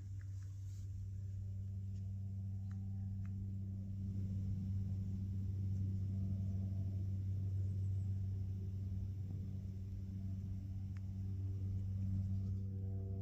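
A steady, low-pitched hum with evenly spaced overtones, unchanging throughout, with a few faint clicks over it.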